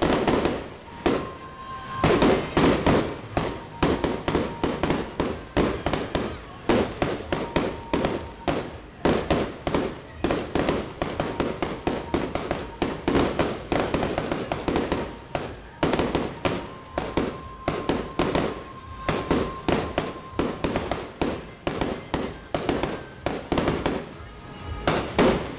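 Fireworks display going off in a rapid, unbroken string of bangs, several a second.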